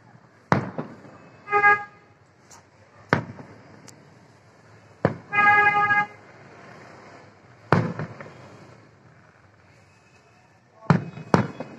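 Fireworks shells bursting overhead with sharp bangs, about six of them, two close together near the end. A vehicle horn honks twice between them, briefly about a second and a half in and longer at about five and a half seconds.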